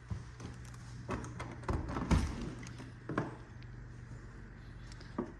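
Scattered knocks and thumps of someone walking and handling things in an empty, unfinished room, the loudest a pair of heavy thumps about two seconds in, over a low steady hum.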